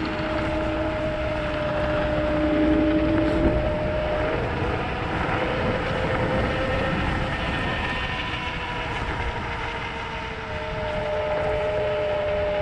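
Kaabo Wolf GT Pro electric scooter under way: its hub motors whine in steady tones that shift in pitch as the speed changes, over a low rumble of wind on the microphone.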